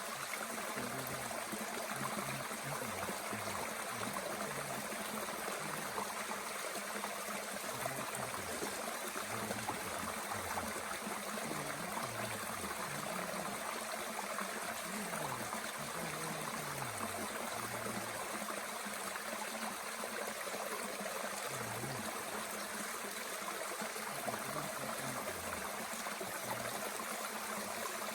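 Mountain stream flowing steadily, a continuous rushing and babbling of water with scattered low gurgles.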